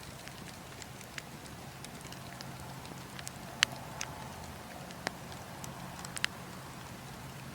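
Wood campfire crackling: scattered sharp pops and snaps over a steady low rumble, the loudest pop a little past halfway.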